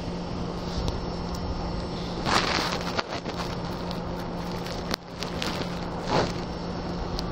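Tokyo Metro Tozai Line commuter train standing at a station platform with its doors open: a steady hum from the car's onboard equipment, broken twice by a short hiss, with a few sharp clicks in between.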